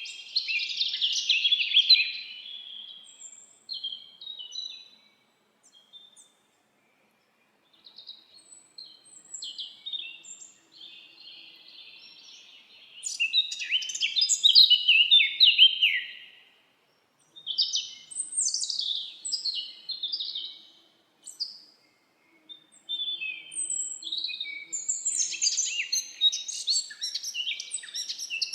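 Songbirds singing and chirping: bursts of high twittering, trills and quick chirps from several birds, with short pauses between phrases.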